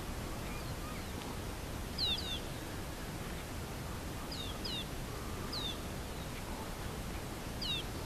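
A bird calling about four times, each call one or two quick, high swooping notes, over steady background noise.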